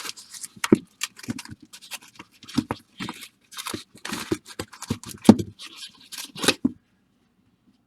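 Baseball card packs being handled and opened: a quick run of short crinkles, rips and scrapes of the wrappers and cards that stops shortly before the end.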